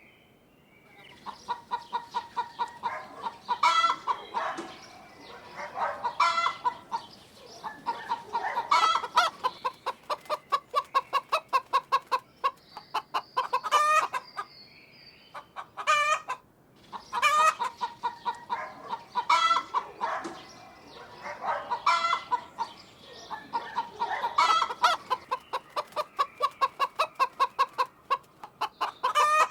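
Domestic hen clucking and cackling: bouts of rapid clucks that climb into louder cackles, repeating every few seconds, with a short pause about halfway through.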